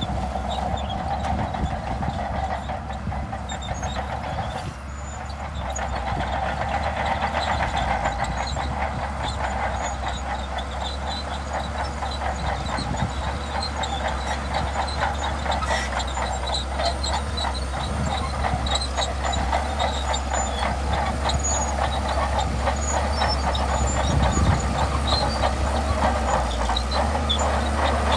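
Shantui DH17C2 crawler bulldozer working: its engine runs steadily under a dense, fast clatter that sets in after a brief dip about five seconds in and carries on from there.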